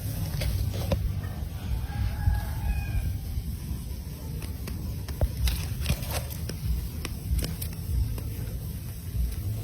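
Steady low rumble with scattered sharp clicks and taps, and a faint drawn-out pitched call about two seconds in.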